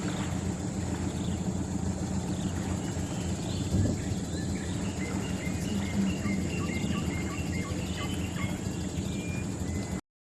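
Rainforest ambience: a steady high insect drone over a low steady rumble, with a run of short, evenly repeated animal call notes from about five to nine seconds in. The sound cuts off suddenly near the end.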